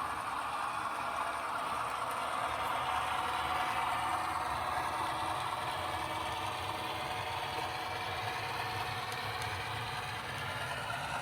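Sound-equipped HO scale model of an EMD GP38 diesel locomotive running, its decoder playing a steady diesel engine sound through the model's small onboard speaker.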